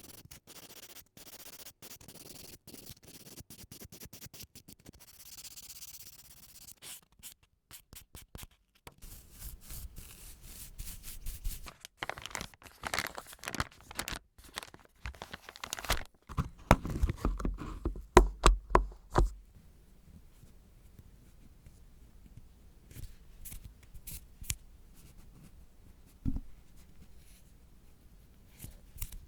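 Close-up scratching and rustling from hands working with nail tools and materials: fine strokes at first, then louder rough scratching in the middle, then a few soft taps.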